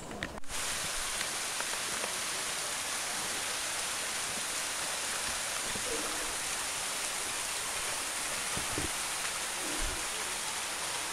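Waterfall: a steady rush of falling water that starts abruptly about half a second in.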